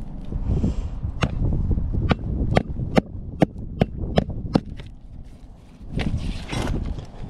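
A run of sharp knocks, about two to three a second for several seconds, over a low rumble, followed by a short rustling noise near the end.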